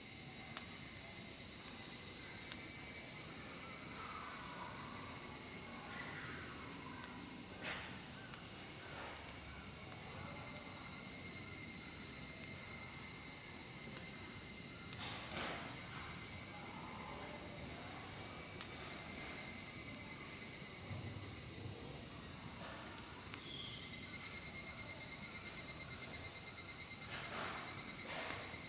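Steady, unbroken high-pitched chorus of insects shrilling.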